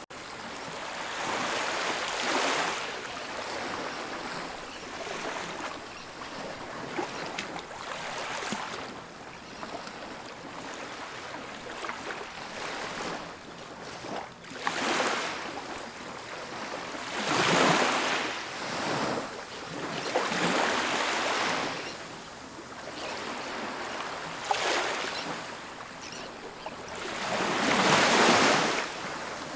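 Ocean waves breaking on a beach, the surf swelling and fading in repeated surges every few seconds, with the loudest crashes past halfway and near the end.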